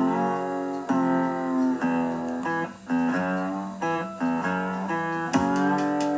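Background music: a guitar playing strummed or plucked chords, a new chord about once a second.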